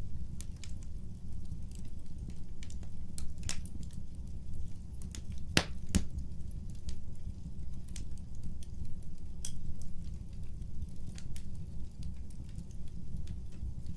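Wood fire crackling, scattered pops over a steady low rumble of the flames, with two louder pops close together about halfway through.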